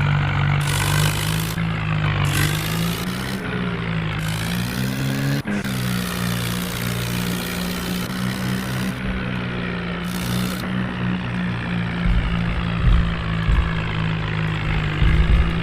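Tractor's diesel engine running under load. Its pitch rises a few seconds in and then holds steady, with low uneven thumps near the end.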